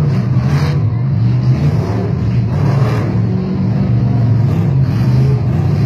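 Monster truck engine running hard, its pitch rising and falling as the throttle is worked during a run.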